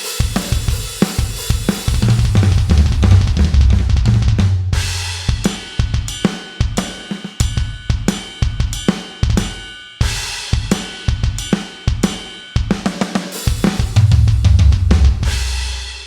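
KAT Percussion KT4 electronic drum kit played through its sound module: a fast groove of kick, snare, hi-hat and cymbal hits, with deep, long-ringing low hits in two passages.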